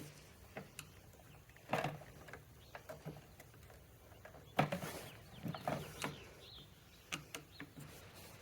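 Scattered clicks and knocks of parts and tools being handled during hands-on repair work, two louder clunks about two seconds and five seconds in.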